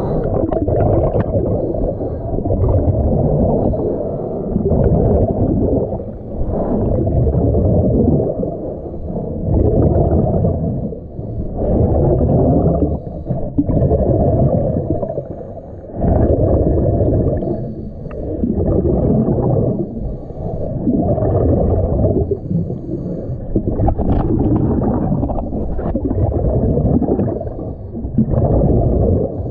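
A diver's breathing through a diving regulator, heard underwater: rumbling surges of exhaled bubbles every two to three seconds, with short lulls for each inhale.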